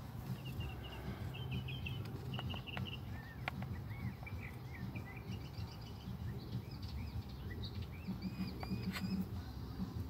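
Small birds chirping in quick series of short, high notes, over a steady low background rumble, with a few light clicks.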